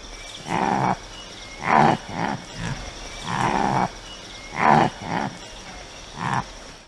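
An animal calling over and over, about nine short calls spaced unevenly, a few of them drawn out longer.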